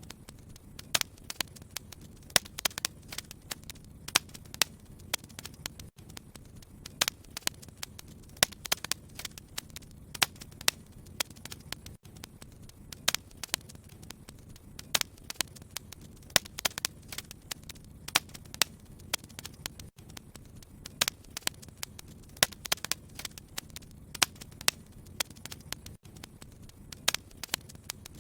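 Wood fire crackling: irregular sharp pops and snaps over a steady low rumble of burning logs. Brief dropouts every few seconds.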